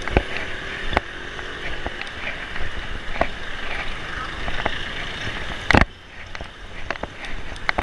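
Riding noise from a bicycle on a city road: steady wind and road rumble with scattered clicks and rattles from the bike. A sharp knock comes near the end, after which the noise eases off.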